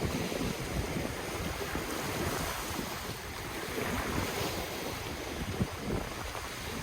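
Ocean waves washing on the shore, a steady wash of surf, with wind buffeting the microphone in low gusts.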